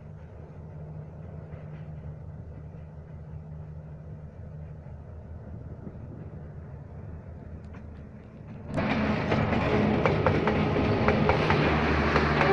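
D19E diesel-electric locomotive hauling a passenger train: a low, steady engine drone comes out of the tunnel, then about nine seconds in it suddenly gets much louder as the locomotive emerges and passes close, with wheels clacking on the rails.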